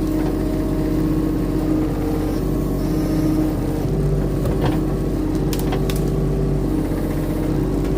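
Diesel engine of compact earthmoving equipment running under load, its note shifting about halfway through as the machine pushes a tree's root ball out of the ground. A few sharp knocks or cracks come in the middle.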